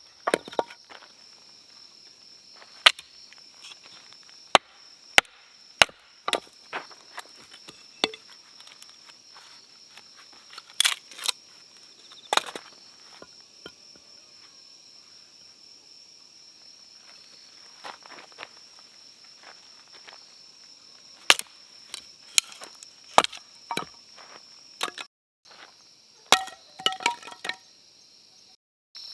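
Firewood being broken up for a campfire: sharp wooden cracks and knocks at irregular intervals, over a steady high-pitched insect drone.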